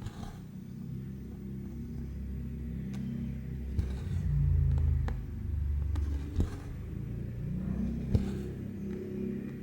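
Low rumble of a motor vehicle engine, swelling about four seconds in and easing off, with its pitch rising near the end. A few sharp clicks sound over it.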